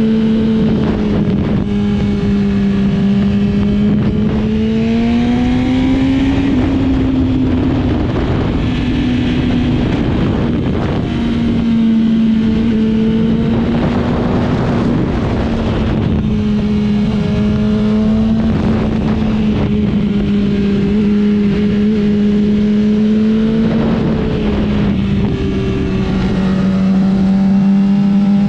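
Motorcycle engine running hard on a racetrack, its note holding high and rising and falling a little with the throttle, under a constant rush of wind noise on the microphone.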